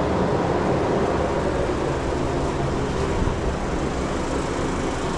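Commercial reach-in refrigerator's condensing unit running steadily, compressor and condenser fan giving an even hum. The system is running without pulling the cabinet below 37 degrees, a sign of the low refrigerant charge that the technician finds.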